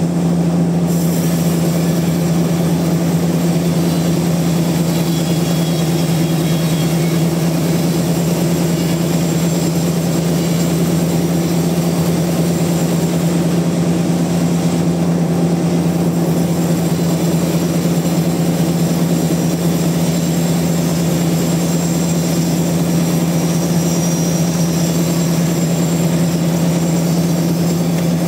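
Sawmill machinery running steadily under a constant load: a strong, even hum at one pitch with a hiss above it, unchanging throughout.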